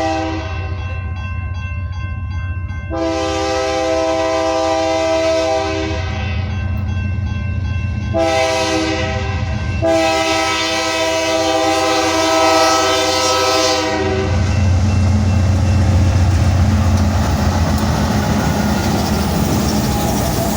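Train locomotive's air horn sounding the grade-crossing signal as the train approaches: the tail of one blast, then a long, a short and a long blast, over the rumble of the train. After the last blast the horn stops and the louder rumble and rail noise of the passing train carries on.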